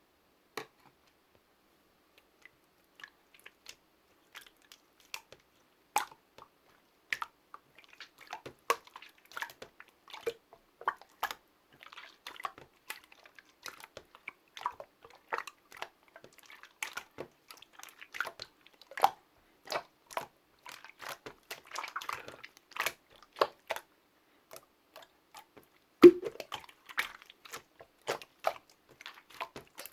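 Slime being squeezed and poked by hand: a string of short, sharp sticky clicks and air-bubble pops, a few scattered ones at first, then coming thick and fast from about a quarter of the way in, with the loudest pop near the end.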